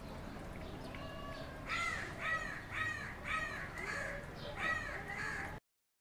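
A bird giving a run of about seven loud, repeated calls, roughly two a second, starting about two seconds in; all sound cuts off suddenly near the end.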